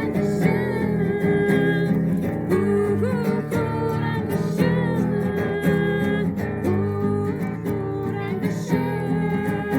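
Acoustic guitar strummed steadily, with a voice singing along in long, gliding notes.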